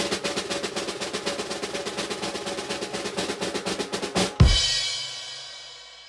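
Snare drum roll, fast and even, that ends about four and a half seconds in on a loud final hit with a bass drum and crash cymbal; the cymbal rings and fades. This is the classic drum-roll-and-crash reveal sound effect.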